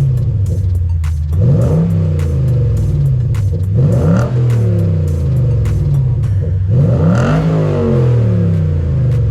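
Lexus IS 500's 5-litre 2UR-GSE V8 through an ARK GRiP catback exhaust, revved in three short blips that rise and fall in pitch, heard over background music with a steady beat.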